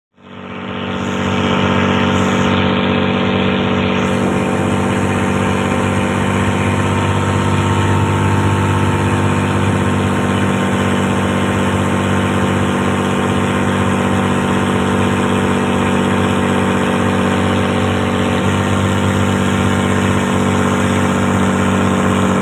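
Engine of a purse-seine fishing boat running steadily at constant speed, fading in over the first couple of seconds.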